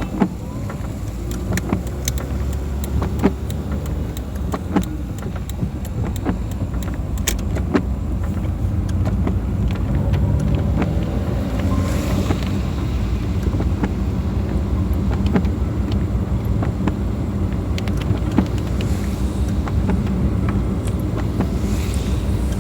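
A car driving on a wet road, with steady engine and road rumble and many scattered sharp ticks.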